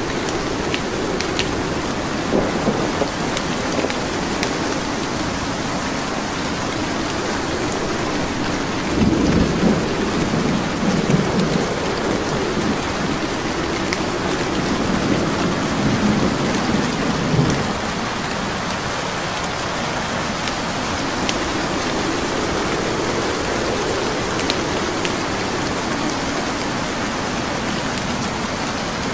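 Steady rain with scattered sharp crackles and pops from a burning wood fire. Low rolling thunder swells up about a third of the way in, again near the middle, and more faintly later.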